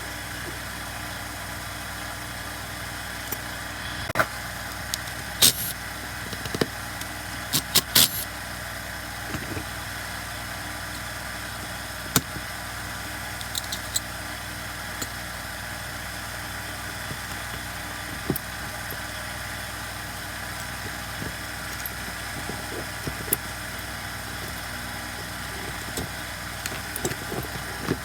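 Scattered sharp clicks and clinks of hand tools on a Stihl MS170 chainsaw as its muffler is being removed, over a steady mechanical hum.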